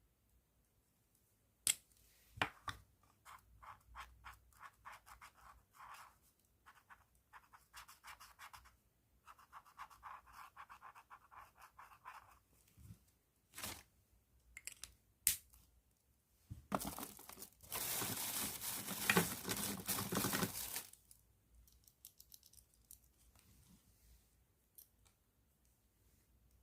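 Pen writing on paper in runs of short scratchy strokes, with a few sharp clicks like a pen cap, and a louder stretch of dense, fast scratching for about four seconds past the middle.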